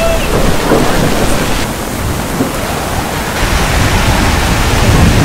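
Heavy rain pouring onto an umbrella and wet city pavement: a dense, loud hiss with a deep low rumble under it. The high hiss dips for a second or two about two seconds in, and the rumble grows stronger about three and a half seconds in.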